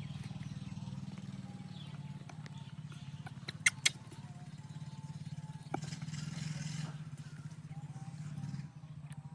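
Small engine running steadily at a low pitch, with two sharp clicks close together about four seconds in.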